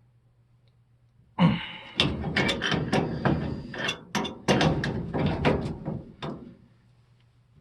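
Crescent wrenches knocking and clanking on a gas pipe fitting as it is tightened. There are about a dozen sharp metal knocks over some five seconds, starting about a second and a half in and stopping shortly before the end.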